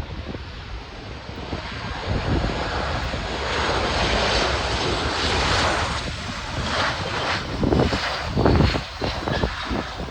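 Airliner jet engines passing close by. The noise builds to a peak about four to six seconds in, then fades with a faint falling whine. Wind buffets the microphone throughout, most heavily near the end.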